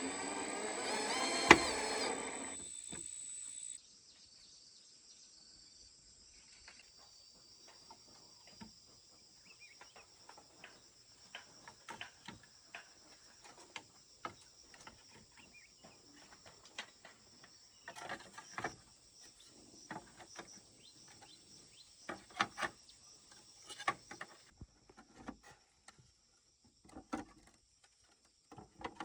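A loud, even noise with one sharp knock stops suddenly about four seconds in. After it, insects trill steadily, with scattered light knocks and taps, a few clusters louder than the rest.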